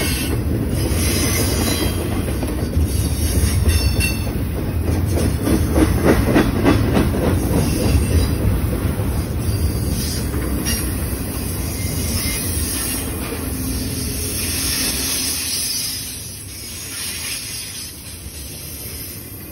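Union Pacific double-stack container train passing close by: the steel wheels of the loaded well cars rumble steadily and clack over the rail joints. The noise drops off noticeably near the end.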